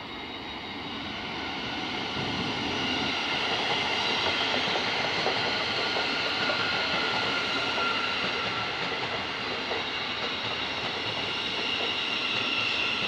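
A train running on the Midland Main Line, getting louder over the first few seconds and then steady. Several high whining tones sit over the rail rumble.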